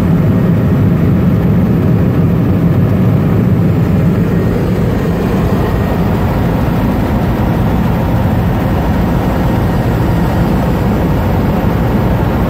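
Helicopter in flight, heard from inside the cabin: its engine and rotors make a loud, steady, deep drone.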